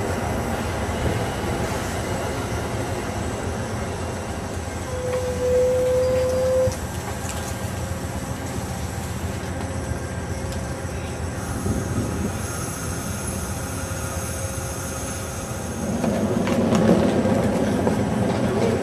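Amtrak passenger train rolling along the station platform, a steady rumble of wheels on rail. A brief high wheel squeal comes about five seconds in, then a fainter one lingers. A hiss sounds near the middle, and the rumble grows louder near the end. The train is pulling in to stop.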